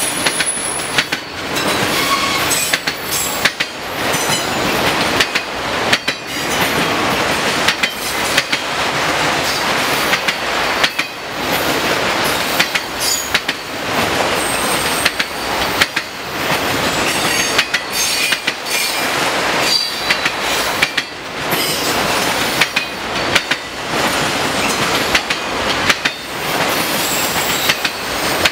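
Autorack freight cars rolling past: a steady rumble of steel wheels on rail, broken by repeated clicks as wheelsets cross rail joints, with occasional brief high-pitched wheel squeals.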